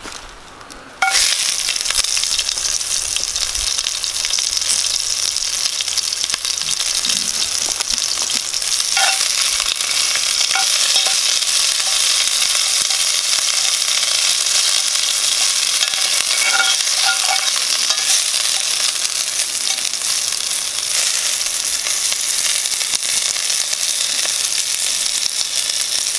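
Asparagus sizzling in hot oil in a cast-iron Dutch oven over a campfire. The sizzle jumps up suddenly about a second in as the spears go into the pan, then holds steady while they are stirred, with a few light taps of a metal spatula on the iron.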